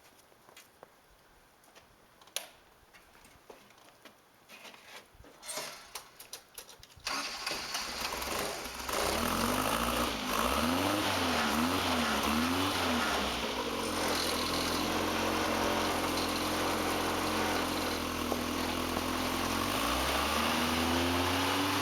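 A few light clicks and knocks, then about seven seconds in a homebuilt compact tractor's engine starts up and runs. It is revved up and down a few times, settles to a steady idle, and the revs rise again near the end.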